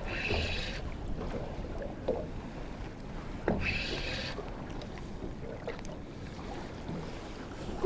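Wind and water noise around a small fishing boat, with a few light knocks. There are two short high-pitched whirs, one at the start and one about three and a half seconds in.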